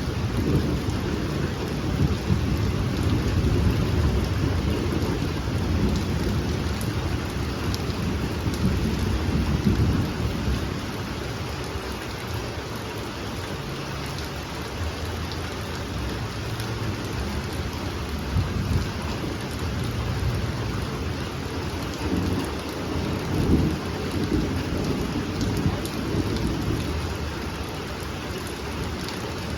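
Heavy rain falling steadily during a thunderstorm, with low rumbling thunder that is strongest over the first third and swells again near the end.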